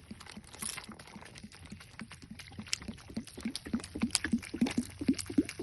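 Soda from a Mentos reaction bubbling and gurgling, a quickening series of small glugs that grows louder toward the end.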